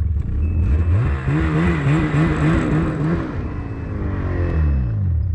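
Gas-powered winch engine running under load as it pulls a dead snowmobile up the slope. Its pitch rises about a second in and wavers, then falls and winds down near the end as the pull finishes.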